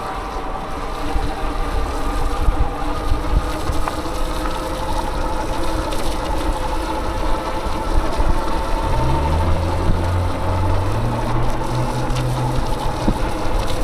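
Wind rushing over the microphone on a moving bicycle, mixed with traffic noise and a few steady whining tones. About nine seconds in, a low motor-vehicle drone comes in and climbs in pitch in steps.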